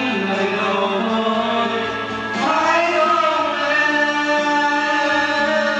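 Music: a song sung by voices holding long, sliding notes.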